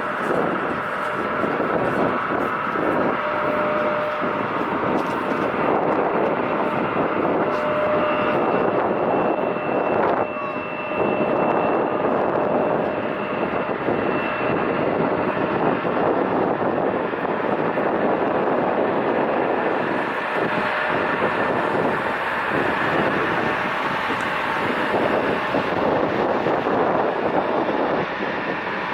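Jet airliner engines at takeoff power during a takeoff roll: a steady, loud rush of engine noise with faint steady whining tones.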